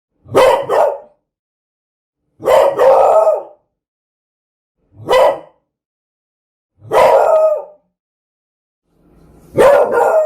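A dog barking: five separate barks, some drawn out towards a short howl, spaced a couple of seconds apart with complete silence between them.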